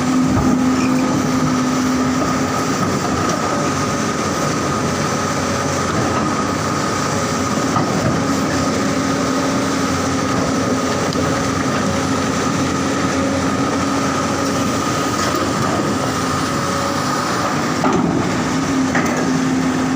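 Large hydraulic excavator working. Its diesel engine and hydraulics make a steady, loud drone with a constant high whine, and a lower hum drops out for a few seconds and then returns.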